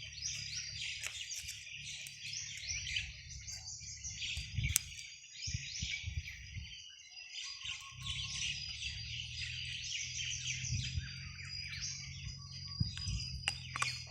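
A flock of birds chirping and calling over one another without a break, many short high chirps overlapping, with a low rumble underneath and one sharp click near the middle.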